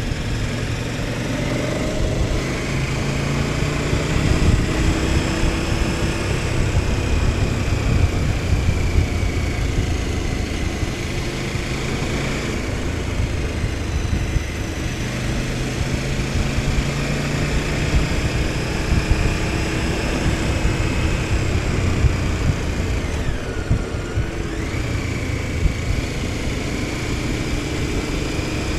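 KTM 1290 Super Adventure S's 1301 cc V-twin engine running under way, its note rising and falling with the throttle over steady wind noise. About 24 seconds in the revs drop sharply and then climb again.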